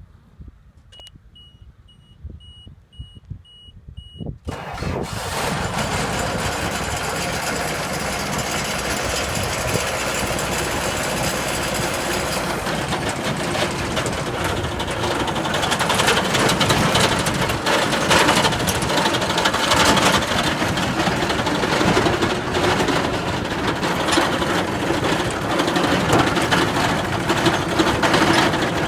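A run of evenly spaced warning beeps, then the Hesston 4690 baler's Deutz diesel engine cranks and starts about four seconds in and keeps running, getting somewhat louder about halfway through.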